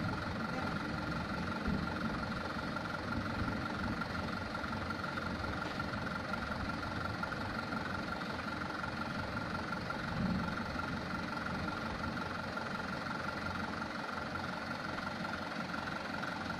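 Mitsubishi Canter truck's diesel engine running steadily at low revs, with a steady high whine over the rumble.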